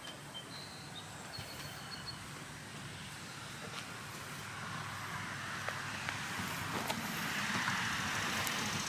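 A vehicle running with a steady low hum, its noise swelling louder over the last few seconds, with a few faint high chirps near the start.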